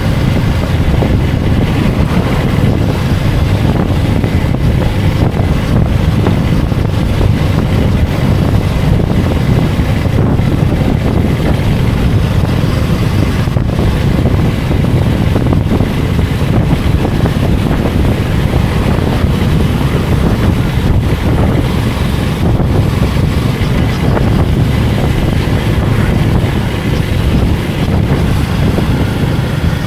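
Motorcycle engine running while riding, with heavy wind rush on the microphone; loud and steady, with no clear revs or gear changes.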